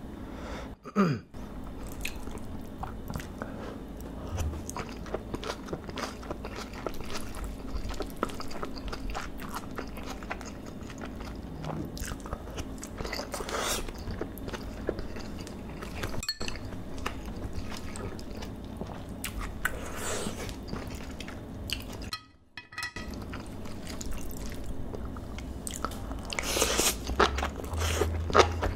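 Close-miked chewing of seasoned beef bulgogi and rice, with many small clicks and crackles from the mouth. The sound briefly cuts out twice, about a second in and again about two-thirds of the way through.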